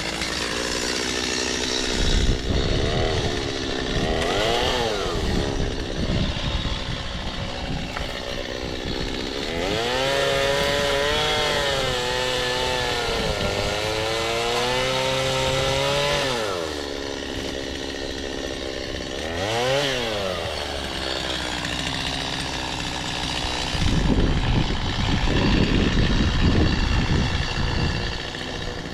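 Chainsaw engine revving up and down several times and held at high revs for several seconds in the middle. The dense, rough stretches near the start and end sound like the saw running under load while cutting crepe myrtle wood.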